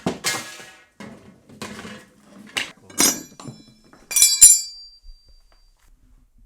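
A run of short clinks and knocks of hard objects being handled, ending in two louder metallic strikes about three and four seconds in that ring briefly with a clear tone.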